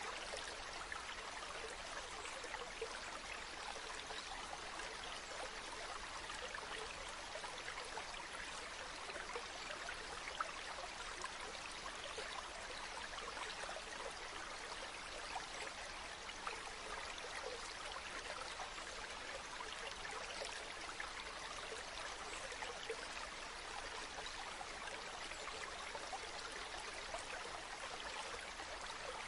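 River water flowing steadily over stones, a continuous babbling rush with small splashes and trickles.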